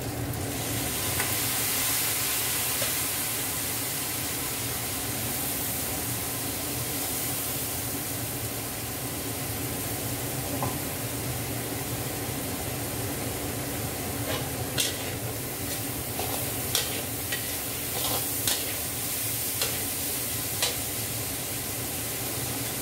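Fried rice sizzling in a wok on the hob, a steady frying hiss over a low hum. In the second half, a scattering of sharp clicks and knocks.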